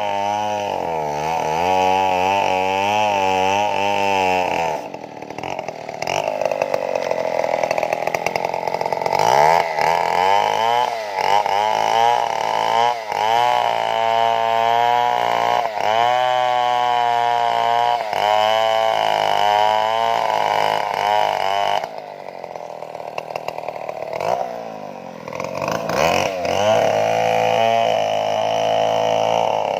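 Stihl two-stroke chainsaw running at high revs while cutting wood, its pitch sagging and recovering again and again under load. It eases off briefly about five seconds in, and again for a few seconds past the twenty-second mark, then revs back up.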